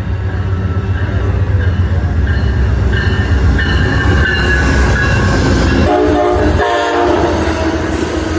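Amtrak passenger train passing at a station during a meet, its diesel locomotive giving a steady low rumble. About six seconds in the horn sounds in two short blasts.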